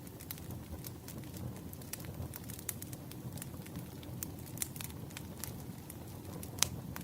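Firewood burning: a steady low rush of flames with irregular sharp crackles and pops from the wood, one louder pop near the end.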